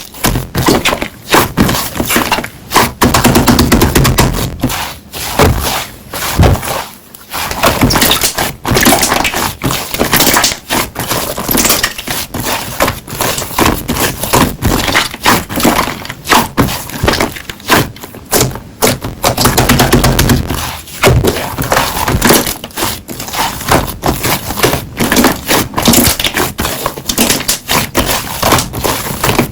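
Slime being squeezed and pressed by hand, making a dense, continuous run of crackling, popping clicks.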